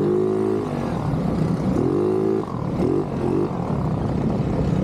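ATV engine running, with its pitch rising and falling three times in short spells over a steady rumble.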